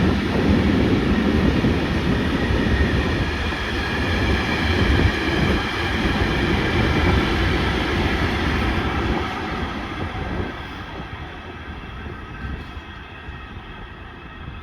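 Freight train rolling past on the rails, its wheels running over the track with a steady rumble that fades away over the last few seconds as the train moves off.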